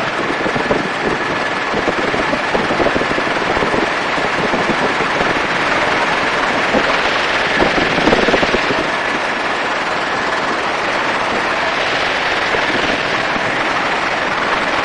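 Helicopter in flight, heard from an open door: a rapid steady chop from the rotor blades over rushing wind, with a faint steady turbine whine.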